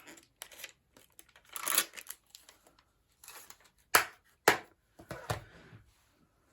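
Craft-desk handling sounds: card and paper rustling and sliding, with two sharp knocks of a stamp on its acrylic block about half a second apart, a little past the middle, as a sentiment is inked and stamped.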